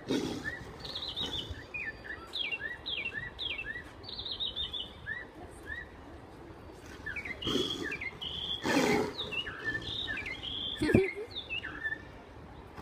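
Small birds chirping steadily in short high calls and quick falling twitters. A few louder rough bursts come around the middle, and a sharp knock near the end.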